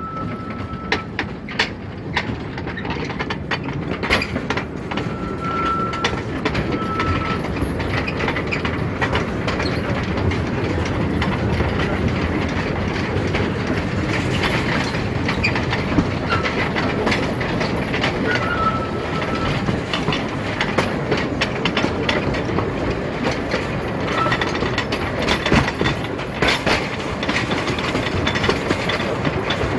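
Narrow-gauge train running, its wheels clattering over the rail joints with a steady rumble, and a few brief high squeaks from the wheels.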